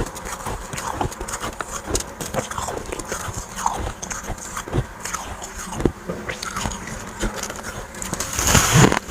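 Close-up biting and chewing of dry, powdery freezer frost chunks: a steady run of crisp crunches and squeaks, with a louder crunching bite near the end.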